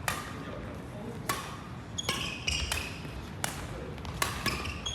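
Badminton rally: a series of sharp racket hits and taps, spaced irregularly about half a second to a second apart, with short high-pitched shoe squeaks on the court floor in the second half.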